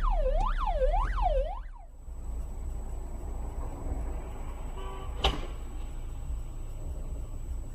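A siren sweeping up and down in pitch about twice a second, which cuts off abruptly about two seconds in. Then steady low road and engine rumble, with one sharp knock a little after five seconds in.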